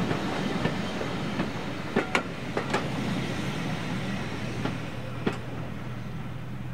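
Passenger coaches rolling past, their wheels clicking over rail joints in sharp, uneven clacks. The sound eases off after about five seconds as the last coach goes by.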